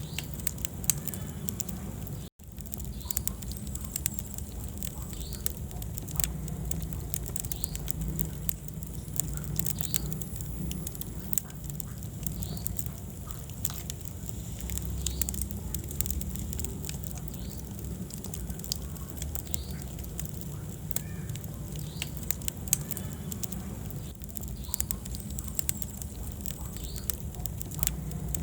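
Wood fire burning in a fireplace, crackling with frequent sharp pops over a low steady rumble of the flames. The sound cuts out completely for an instant about two seconds in.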